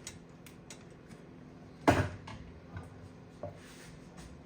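Kitchen handling noises: scattered light clicks and taps, with one sharp knock about two seconds in.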